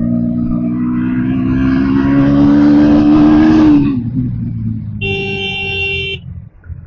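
Bajaj Pulsar NS motorcycle engine pulling under steady acceleration, its pitch rising slowly for about four seconds before the throttle closes and it falls away. About five seconds in, a vehicle horn sounds once for about a second.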